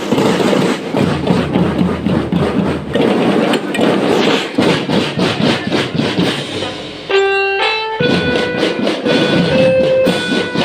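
Marching band playing: a dense, rhythmic drum beat for about seven seconds, then the drums drop out for two held notes before they come back in under a melody.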